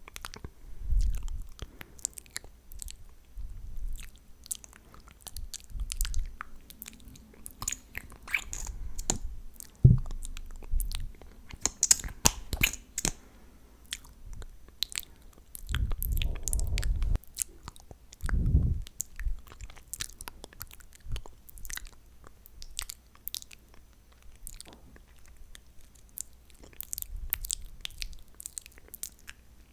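Close-miked ASMR mouth sounds: wet, sticky clicks and smacks of glossed lips and tongue, coming irregularly and densely, with mock biting and chewing. A few low thuds come in the middle.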